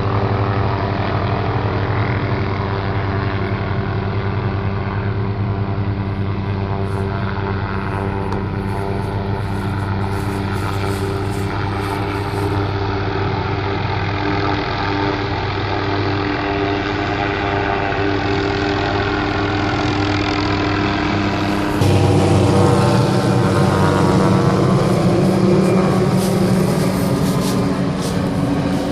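Tree-trimming helicopter flying low, its rotor and engine giving a steady, loud drone. About three-quarters of the way through it suddenly gets louder and fuller.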